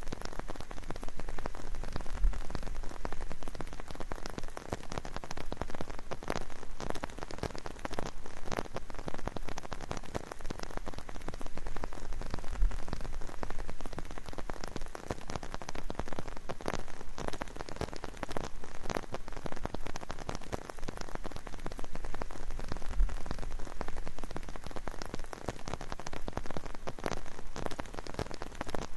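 Rain falling steadily, a dense patter of drops hitting a surface close to the microphone, with a few soft low thumps.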